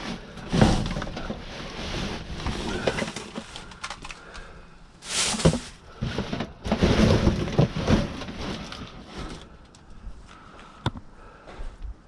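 Junk being rummaged through and handled: irregular rustling and scraping with scattered knocks and clunks. It is busiest in the first two-thirds and quieter near the end.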